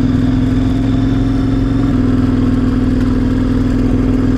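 KTM 1090 Adventure R V-twin engine running at a steady pace while riding, with a slight change in its lower tone about two seconds in.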